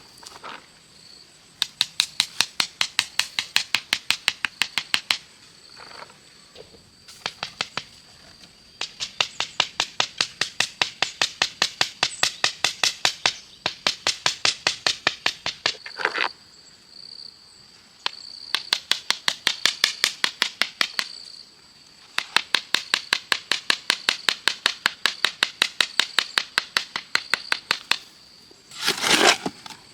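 Rapid runs of sharp strikes or taps, about five a second, in bursts of a few seconds with short pauses between. A steady faint high drone sits behind them.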